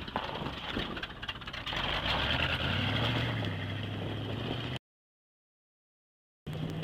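1982 GMC pickup's engine running, getting louder about two seconds in as it revs up for a hill climb. The sound drops out completely for a moment near the end, then the engine comes back, holding a steady, higher note.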